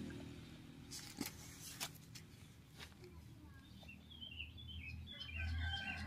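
Faint bird chirping: a quick run of short chirps in the second half, after a few soft clicks.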